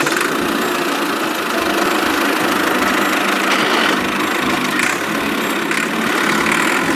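A small motor running steadily, with no change in speed.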